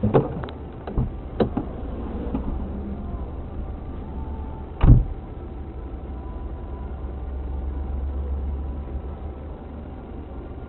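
Steady low rumble of a car's engine and road noise heard from inside the vehicle, with a few sharp knocks in the first second and a half and one heavier thump about five seconds in.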